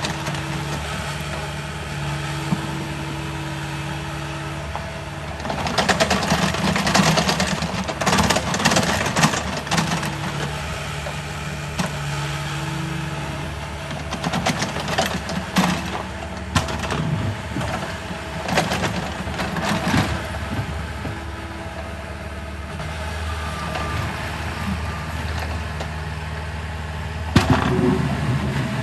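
An engine idling steadily, with several stretches of rattling, scraping noise over it.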